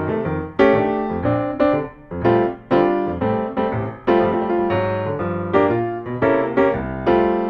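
Background piano music: a steady run of struck notes and chords, each fading after it sounds.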